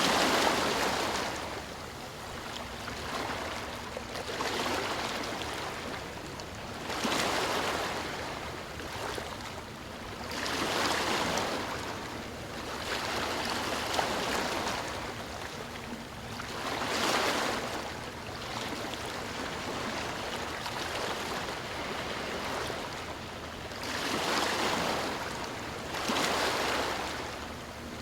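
Ocean surf: waves washing onto the shore in a slow rhythm, the rushing noise swelling and fading every few seconds.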